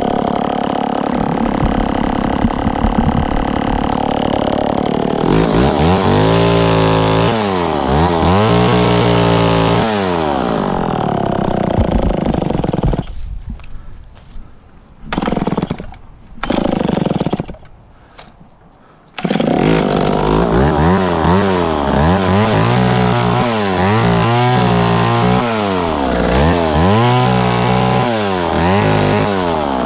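Two-stroke chainsaw running and cutting, its engine speed rising and falling again and again under load. About 13 seconds in it drops much quieter, with two short bursts, then runs loudly again from about 19 seconds on.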